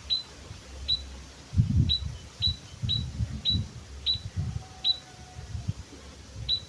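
White-headed munia (emprit kaji) giving short, high single chirps, about nine at irregular spacing, each dipping slightly in pitch. Low thumps and rumbles sit under the calls.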